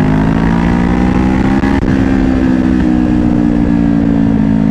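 Kawasaki Ninja 500's parallel-twin engine running under way, heard from a helmet-mounted mic: its pitch rises gently over the first two seconds, dips briefly in loudness, then climbs slowly again and eases off near the end.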